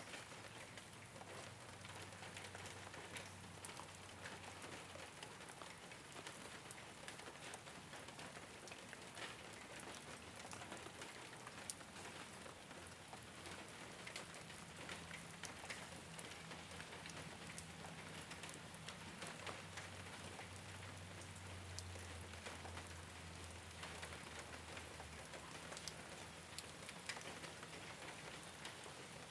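Steady rain falling on a rooftop: an even patter dotted with the ticks of single drops. A faint low hum underneath swells and fades.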